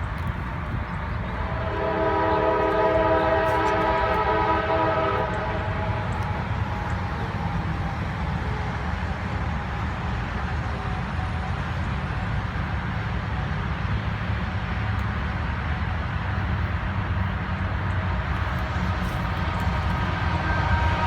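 Norfolk Southern diesel locomotive's multi-chime air horn sounding one long chord about two seconds in that lasts some four seconds and fades, over the steady low rumble of the approaching train. The horn starts again just at the end.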